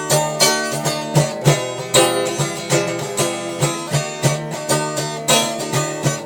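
Instrumental music between sung lines: guitar picking a melody with regular plucked notes, about two to three a second.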